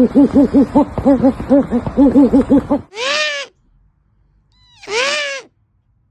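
Pet owl calling: a fast run of short hoots, several a second, that stops a little under three seconds in, then two drawn-out, rising-and-falling calls about two seconds apart.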